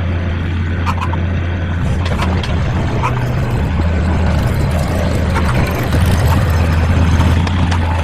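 Mini excavator's engine running steadily while digging out shale, with a few short clicks and knocks over it.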